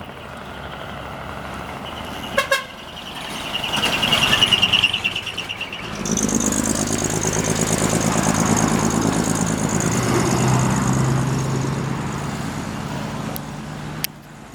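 Decorated Japanese trucks passing: a short horn toot, then a warbling horn call, then a big truck's diesel engine going by loudly for several seconds.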